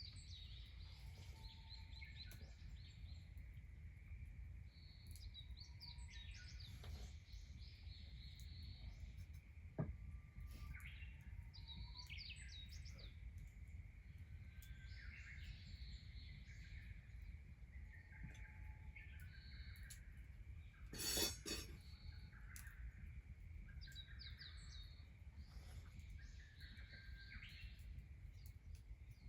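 Wild birds chirping and calling here and there over a faint, low steady rumble. There is a sharp click about ten seconds in, and a brief, louder rush of noise about two-thirds of the way through.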